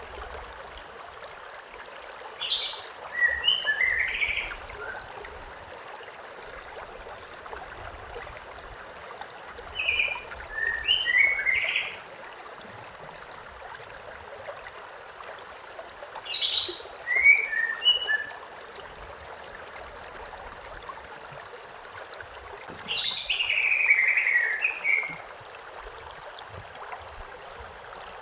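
A stream runs steadily while a songbird sings four short phrases of quick chirped notes, one about every six or seven seconds, each a little over a second or two long.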